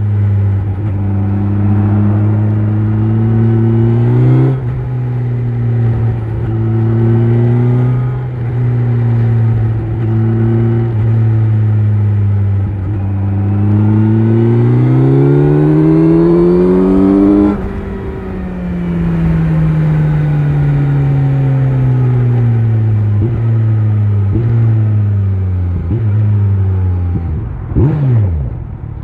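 Kawasaki Z900 inline-four with an Akrapovic exhaust running on the road. It holds a steady engine note, then accelerates with a long rising pitch until about two-thirds of the way through. The throttle closes suddenly and the engine winds down with a falling note as the bike slows, with a short wavering burst of revs near the end.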